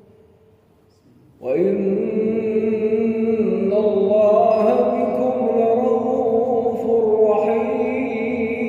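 A male Quran reciter chanting in melodic tajweed, his voice entering about a second and a half in and drawing out long, slowly sliding held notes. Before that, the echo of the previous phrase dies away.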